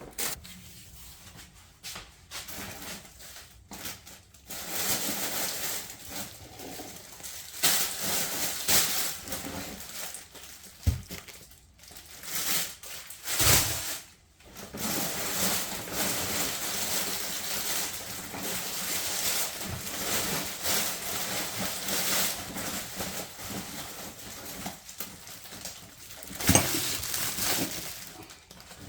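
Rustling and crinkling of plastic grocery packaging as items are handled, with a few sharp knocks of things being set down.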